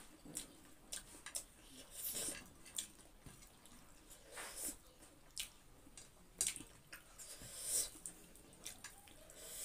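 Close-miked eating sounds: wet chewing, lip smacks and mouth clicks in short, scattered bursts from someone eating rice and fried vegetables by hand.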